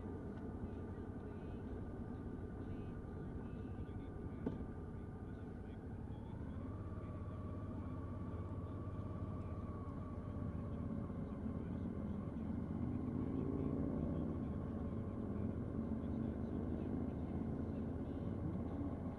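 Wind rush and road noise from a 2012 Suzuki V-Strom 650 being ridden at speed, with the steady hum of its V-twin engine. About six seconds in, a whine in the sound steps up in pitch and holds. Around thirteen seconds, a deeper rising drone comes up and the sound grows louder.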